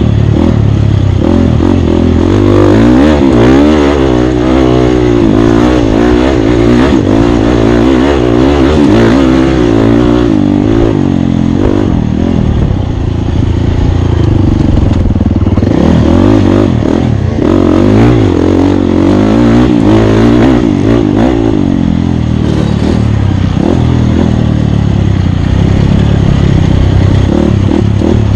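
Off-road racing motorcycle's engine, loud and close, revving up and down over and over as the throttle is worked while racing, its pitch constantly rising and falling.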